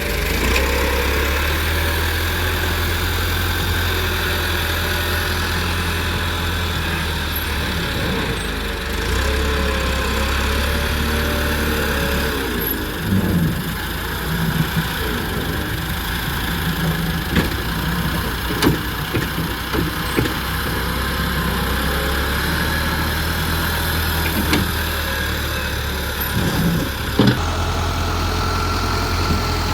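Diesel engine of a JCB loader working, its engine speed rising and falling under load, with a few sharp knocks.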